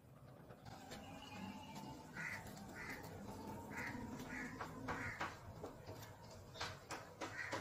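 A bird giving about five short, harsh calls in a row, with rustling and a few sharp crackles of plant stems near the end as weeds are pulled by hand.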